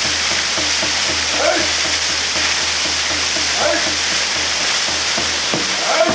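A waterfall pouring in a steady, even rush. A short rising voice-like call comes through it about every two seconds, four times.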